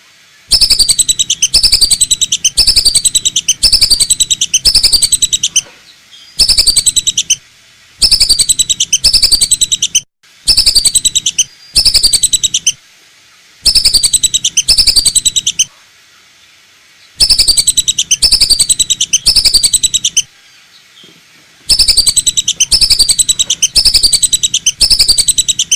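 Lesser whistling duck (belibis batu) calls played as a hunter's lure recording: loud, shrill whistled notes, each falling in pitch, repeated in quick runs of several notes with short pauses between runs.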